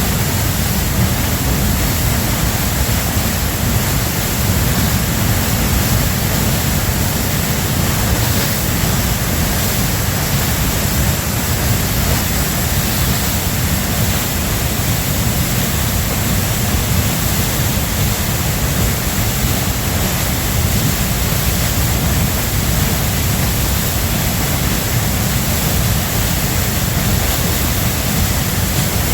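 Waterfall pouring, a loud, steady rush of falling water that never changes.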